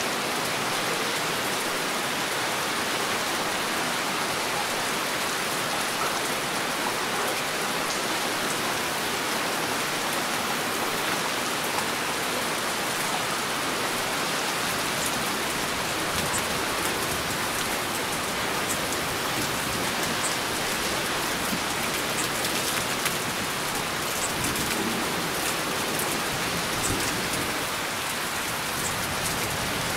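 Heavy rain falling steadily, a dense even hiss, with scattered sharp drop ticks in the second half.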